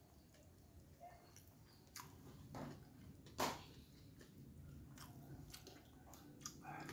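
Faint close-up chewing of a mouthful of martabak, a fried stuffed pancake, with soft wet mouth clicks and one short louder mouth sound about three and a half seconds in.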